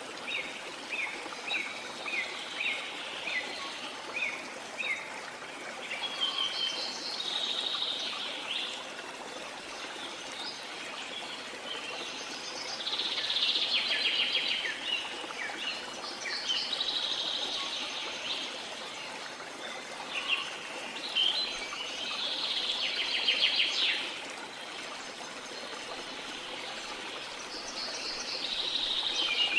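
Birds singing over the steady rush of a stream. A run of short falling chirps, about two a second, opens the passage, followed every few seconds by bursts of busy, rapid trilling song.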